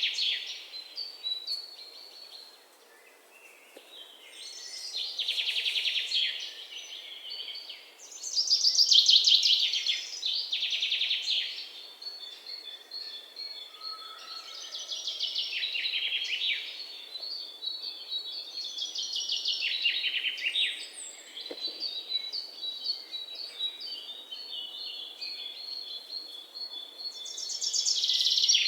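A songbird singing phrase after phrase of rapid trilled notes, some sweeping downward, with short pauses between phrases and thin high chirps in the gaps.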